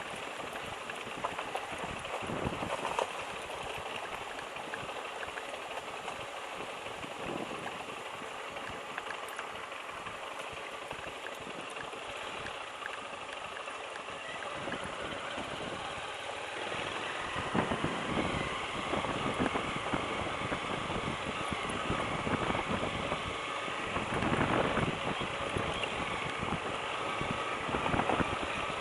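Motorcycle engine running under a steady rushing noise, which grows louder about two-thirds of the way through.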